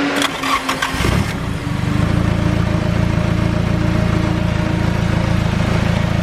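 Car engine catching about a second in after cranking, with a burst of rattling, then settling into a steady idle. The loosely mounted oil catch can rattles in the engine bay.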